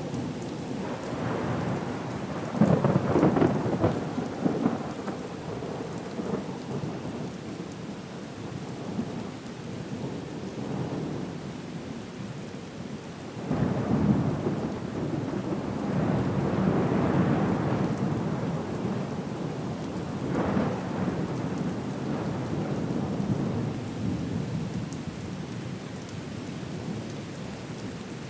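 Storm ambience: steady rain with rolling rumbles of thunder that swell up and die away several times, loudest a few seconds in and again around the middle.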